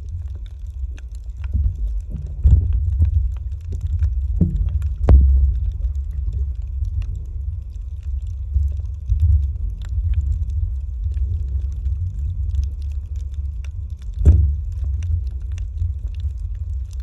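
Muffled low rumble of water moving around a camera underwater, with a few dull knocks against the housing.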